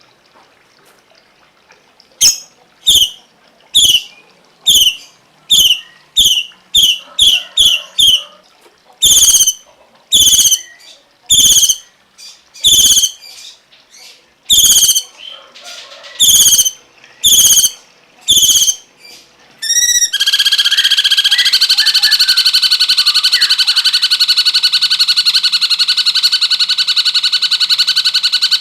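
A songbird calling: short, sharp, high calls about one a second, coming faster for a few seconds around the middle of the first part. About twenty seconds in, a loud, rapid continuous trill takes over.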